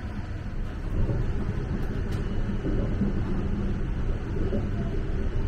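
Steady low rumble of the E261-series Saphir Odoriko electric limited express train running at speed, heard inside the passenger car, a little louder from about a second in.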